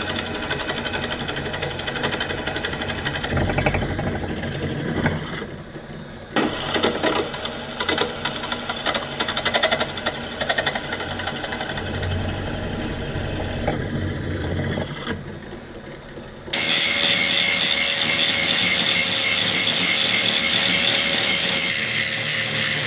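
Power drill boring holes in steel: a rapid chattering rattle with abrupt jumps in level, then a steady high motor whine over the last several seconds.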